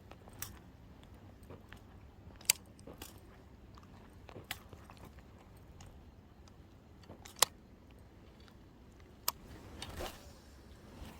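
Sharp isolated clicks and knocks, about five of them a couple of seconds apart, over a faint steady background, with a short rustle near the end.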